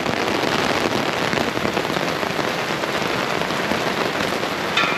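Heavy rain falling steadily, pattering on the fabric canopy of a beach umbrella held just over the microphone.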